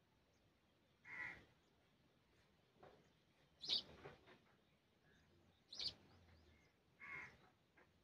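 Bird calls: four short calls spaced about two seconds apart, the loudest in the middle, with a few fainter chirps between them.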